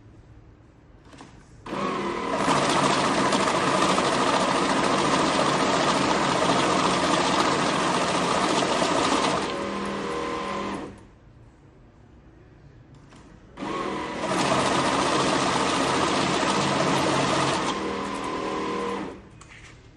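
Lidix ML2V banknote counting machine running twice, riffling a stack of notes through at high speed with a dense fast whirr for about eight seconds and then about five. At the end of each run the motor turns on more quietly for a moment before it stops.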